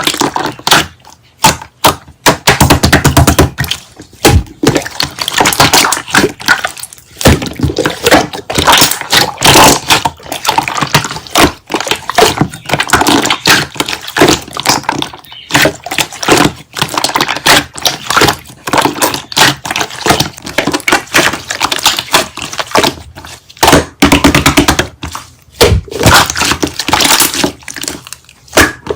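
Slime being squished and poked by hand, making a dense, irregular run of clicks, pops and crackles.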